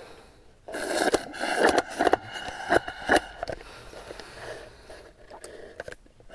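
Close-miked bubble tea being drunk and eaten: about a second in, a loud stretch of scraping, crackling noise with sharp clicks starts, then eases off into scattered clicks.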